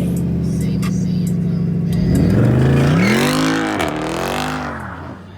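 A car engine idling steadily, then revved up and let back down twice in quick succession before settling back to idle.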